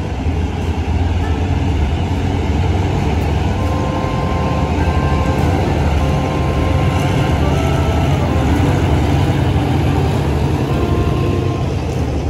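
Diesel train running close by: a steady, loud low rumble of engine and rail noise.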